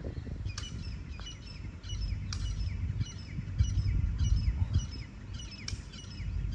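A bird calling over and over, short falling chirps at about two a second, over a low steady rumble of wind on the microphone.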